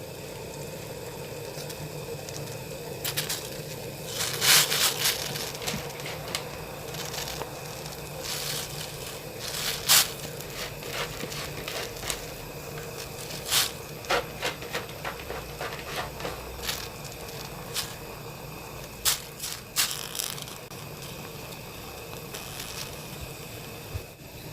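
Mung bean sprouts blanching in a pot of boiling water: a steady bubbling background with scattered crackles and scrapes, and several louder sharp knocks along the way.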